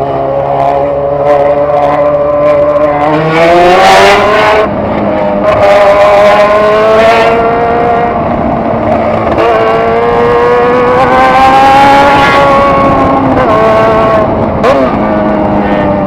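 Motorcycle engine accelerating through the gears while riding: the pitch climbs, drops at each shift, then climbs again several times, settling lower near the end. Bursts of wind noise come in with the speed.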